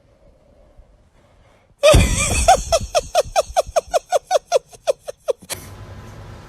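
A sudden loud burst about two seconds in, then a fast run of about a dozen short high-pitched vocal cries, about five a second, which stops abruptly.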